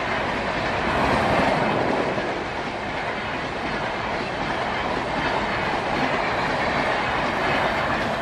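Passenger coaches of an express train passing close by at speed: a loud, steady rush of wheels on rails.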